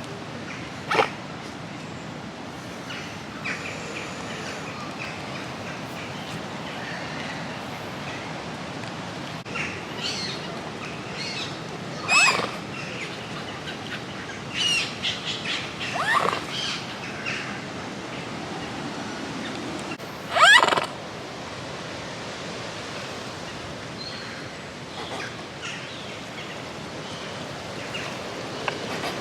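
Birds calling: a few short, loud calls scattered through, over a steady outdoor background rush.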